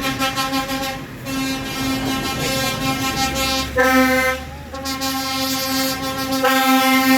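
Vehicle horn sounding in long, held blasts, with short breaks about a second in and about four and a half seconds in. A low engine rumble runs underneath in the middle.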